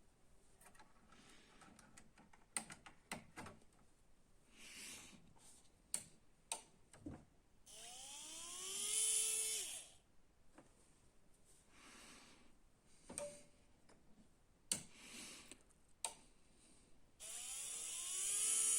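New Canon RM1-7624 24 V DC printer main motor spinning up on test power: a whine that rises quickly in pitch, holds steady for a second or two and cuts off, twice, about eight seconds apart. The motor turns freely, so the replacement works. Light clicks and taps come in between.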